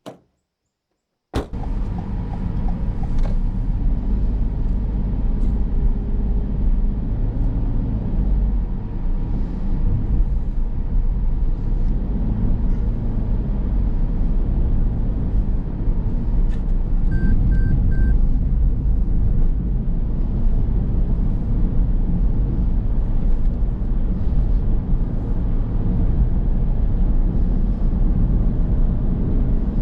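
A car driving: steady engine and road noise with a low rumble, starting suddenly about a second and a half in.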